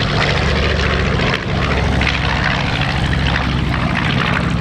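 Piston-engined World War II warbirds flying past, led by a B-25 Mitchell bomber whose radial engines and propellers give a steady low engine sound, with a brief dip about one and a half seconds in.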